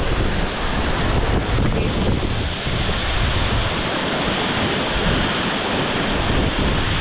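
Waterfall rushing steadily, a loud continuous roar of falling water.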